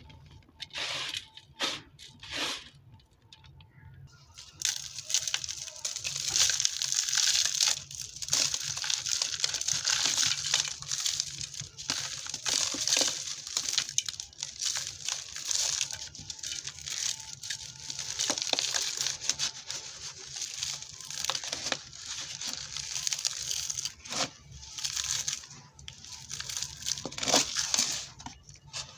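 Dry, dusty red dirt and sand-cement being crumbled, crunching and crackling crisply. A dense, continuous run of crackling starts about five seconds in and thins out a few seconds before the end, with separate single crunches before and after.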